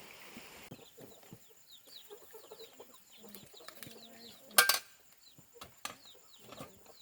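Ducklings peeping, many short rising chirps several times a second, with light ticking and one brief loud sound a little past halfway.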